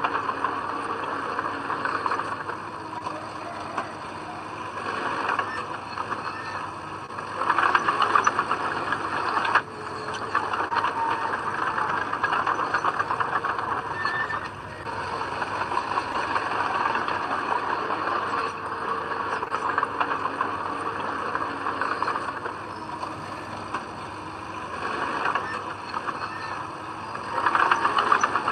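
Heavy diesel earthmoving machinery running steadily with a rattling, clanking texture. It works harder and louder twice, about a quarter of the way in and again near the end.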